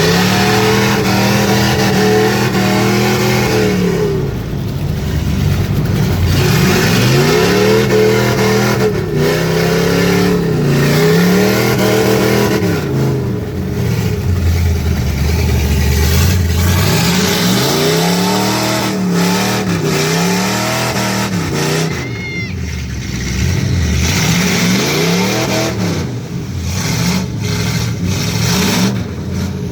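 Mud truck's engine revved hard over and over, its pitch climbing and dropping every few seconds.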